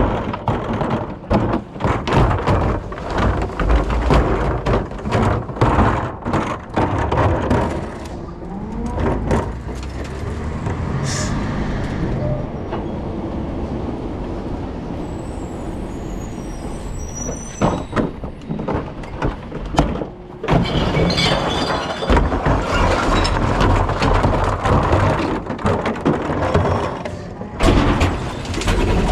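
Rear-loader recycling truck at work: its engine running under dense clattering and banging, which eases to a steadier run in the middle and picks up again for the last several seconds.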